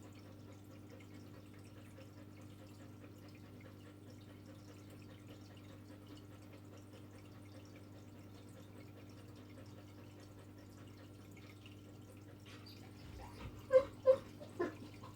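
Faint steady electrical hum of room tone. Near the end, a dog whimpers or yelps a few times, in short high-pitched cries.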